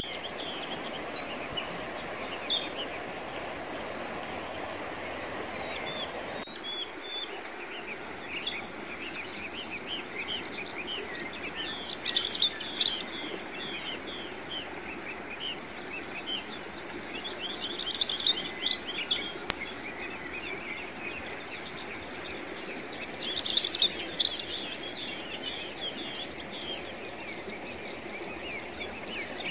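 Small songbirds chirping and twittering continuously, with louder bursts of twittering about every six seconds. A soft background hiss underneath drops away about six seconds in.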